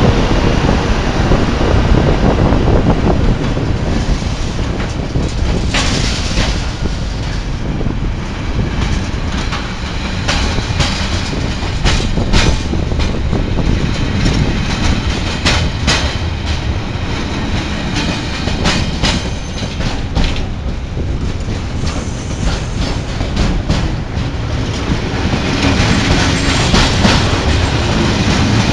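Train running past on the rails: a loud, steady rumble with many sharp clicks from wheels crossing rail joints, most frequent in the middle stretch.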